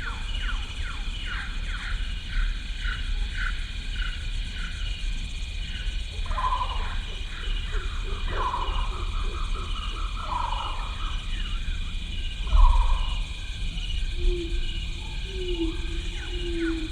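Stock wildlife ambience sound effect: a steady, rapid insect-like chirping with a train of short falling calls about twice a second. Several louder animal calls come in the middle, a thump near the two-thirds mark, and a steady low hooting tone near the end.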